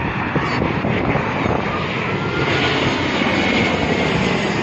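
Airbus A380 airliner's four jet engines: a steady, loud rushing noise with a faint high whine that drifts slightly in pitch.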